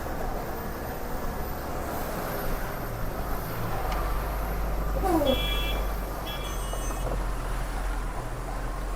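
Truck engine running with road noise as the truck drives. About five seconds in there is a brief falling tone, followed by two short high-pitched beeps about a second apart.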